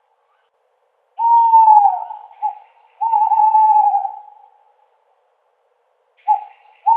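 Owl hooting: a long hoot that drops slightly in pitch about a second in, a short note, then another long hoot; near the end a short note and the start of another long hoot, with silent gaps between the calls.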